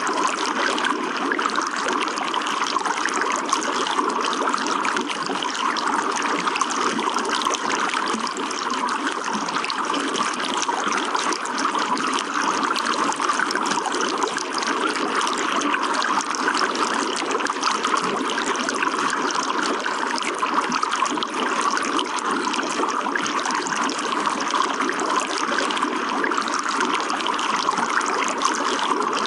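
Running water trickling and splashing steadily, an even unbroken flow.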